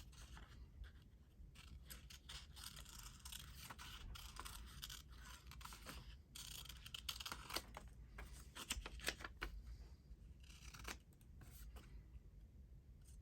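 Faint rustling and scraping of paper being handled and cut at a craft table, with small irregular clicks and snips.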